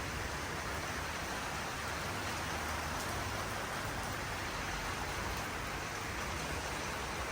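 Steady rain falling in a thunderstorm, an even hiss with no distinct claps.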